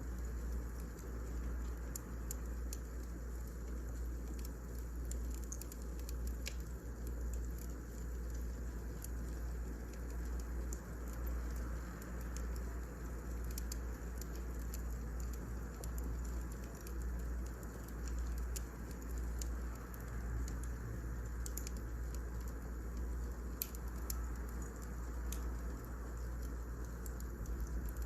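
Firewood burning in a fireplace: a steady low rumble with scattered small crackles and pops.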